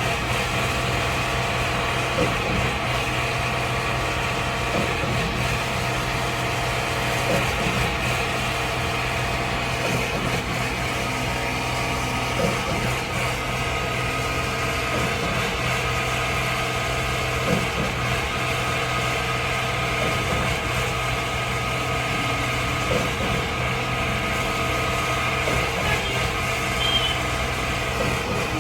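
Concrete mixer truck's engine running steadily at an even speed, with a few light knocks over the hum.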